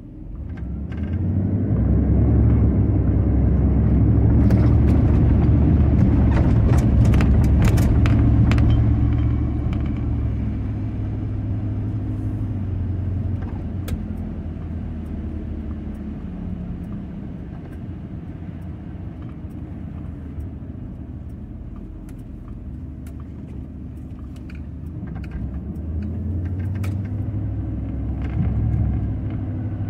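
Motor vehicle running with a low rumble that swells about a second in and is loudest for the next eight seconds, then eases, with scattered sharp clicks and rattles.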